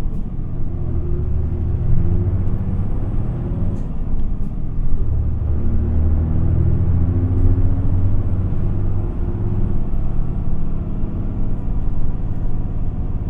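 Isuzu Erga city bus's diesel engine and drivetrain running as the bus drives, heard from inside the passenger cabin: a steady low rumble whose pitch climbs a few times as the bus accelerates.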